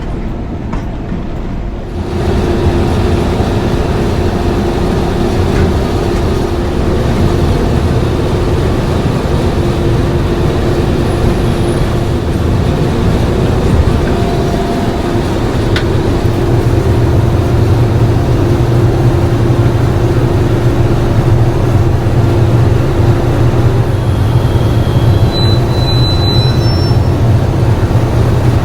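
English Electric V12 diesel engine of Class 37 locomotive D6700 running under power, a steady heavy drone with a steady tone held above it. It gets louder about two seconds in and heavier again about halfway through.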